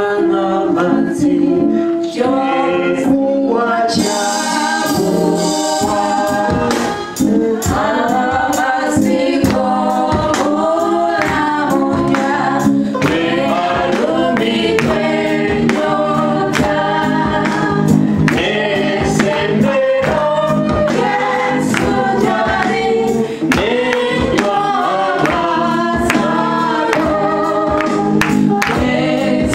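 Choir singing gospel music with instrumental accompaniment and a steady beat.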